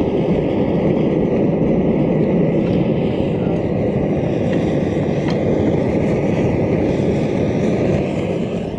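A running blacksmith's forge, making a loud, steady rushing noise as a piece of steel heats inside it.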